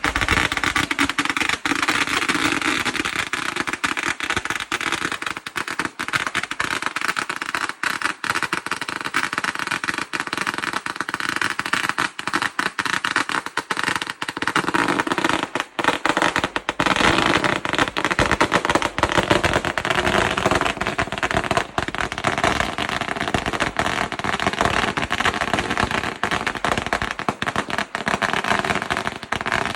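A 100,000-shot string of firecrackers going off, a dense, unbroken rapid crackle of bangs that starts abruptly.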